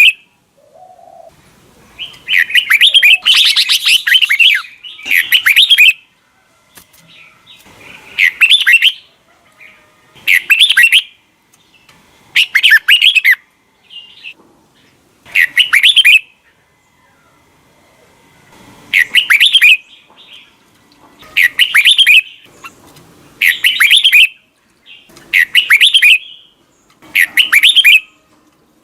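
Red-whiskered bulbul singing: about a dozen short, bright, warbled phrases, each under a second long, repeated every two to three seconds with brief pauses between them.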